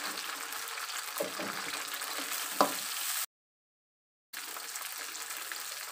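Sliced onions and green chillies sizzling in hot oil in an aluminium wok while being stirred with a wooden spatula. There is a sharp knock about two and a half seconds in, and the sound cuts out completely for about a second just after it.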